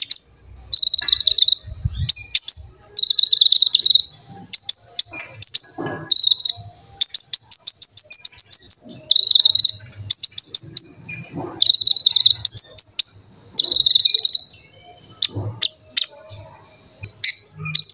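Konin (kolibri ninja sunbird) singing: high, rapid buzzing trills in short phrases, one after another, with one longer trill near the middle.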